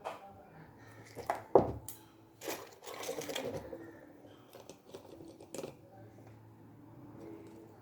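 Metal parts and hand tools being handled on a workbench: a run of clicks and clinks, a sharp knock about a second and a half in, then a short rattling, scraping stretch and scattered light ticks.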